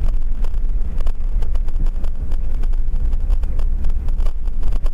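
Driving noise from a moving car picked up by a dashboard camera inside the cabin: a steady low rumble of road and engine with a scatter of small ticks and rattles.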